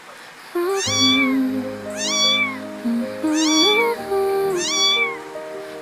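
A cat meowing four times, each meow rising and then falling in pitch, about a second and a half apart, over background music with held notes.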